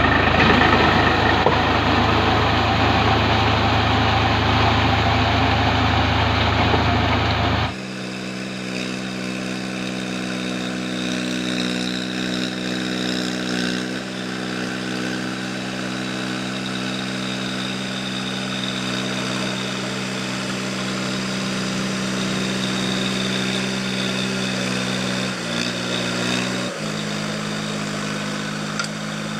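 Swaraj 735 FE tractor diesel engine running loudly with heavy mechanical noise. After an abrupt cut about eight seconds in, it gives way to a quieter, steady engine drone that shifts pitch twice near the end.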